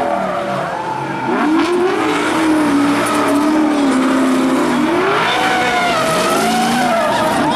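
Drift car engine revving hard: its pitch climbs about a second in, holds steady, drops near five seconds, then climbs again.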